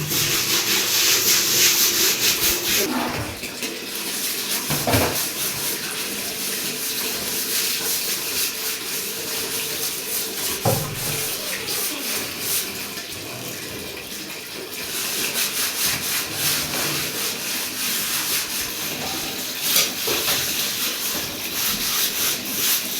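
Water running and splashing, louder at the start and again in the second half, with a few short knocks.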